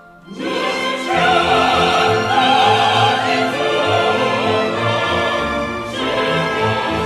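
After a brief gap, an orchestra strikes up with full, sustained chords, the opening introduction of a new song.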